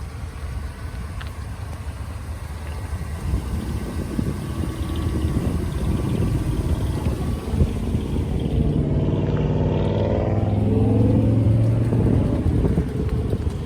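A motor vehicle's engine running with a low rumble, rising in pitch as it speeds up from about nine seconds in.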